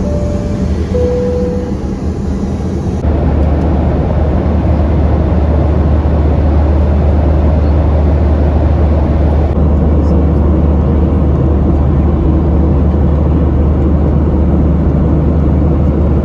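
Steady low rumble of a Boeing 737-900's cabin noise, with a two-note falling chime of the cabin chime system near the start. The rumble gets louder about three seconds in.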